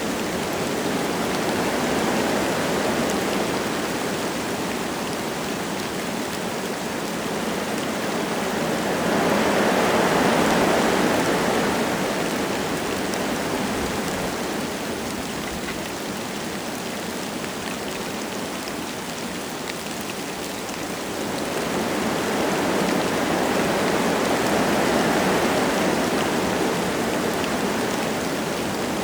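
Wind gusting through forest trees with light rain falling: a steady rushing hiss that swells louder twice, around ten seconds in and again from about twenty-two seconds.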